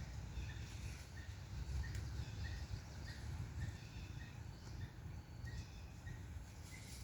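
A bird calling with short chirps repeated steadily, about two to three a second, over low outdoor rumble.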